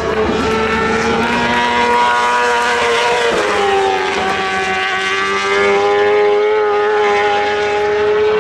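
Racing superbike engine at high revs, holding a steady high pitch. The pitch drops about three seconds in, then holds steady again.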